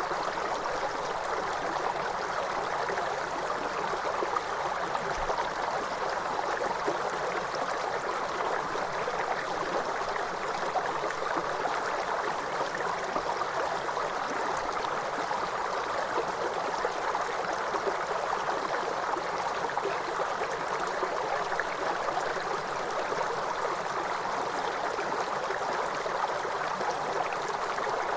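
Waterfall: water flowing and splashing in a steady, unbroken rush, concentrated in the middle range with little deep rumble.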